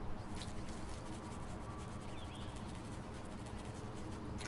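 Steady background noise with a few faint, short bird chirps about two seconds in.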